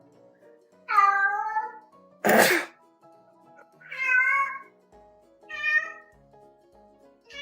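Domestic cat meowing four times, with a short breathy burst about two seconds in, over soft background music.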